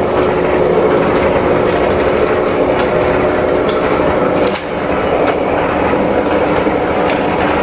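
Metal lathe running and cutting a taper on a pulley workpiece: a loud, steady machining noise with a constant hum. The hum drops out and the noise dips slightly about four and a half seconds in, then the cutting carries on.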